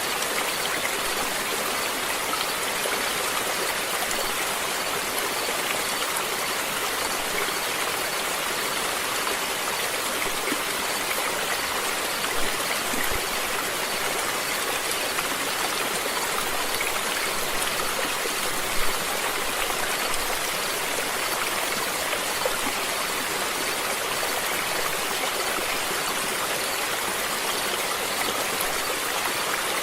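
Stream water flowing steadily over rocks, a constant rushing splash with a few brief louder splashes.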